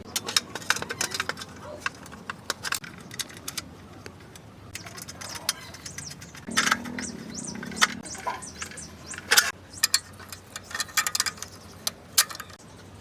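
Metal tools and small metal parts clinking and tapping in quick, irregular clicks during motorcycle restoration work.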